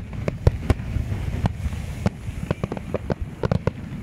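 Aerial fireworks exploding overhead: a rapid, irregular series of sharp bangs and cracks over a low rumble.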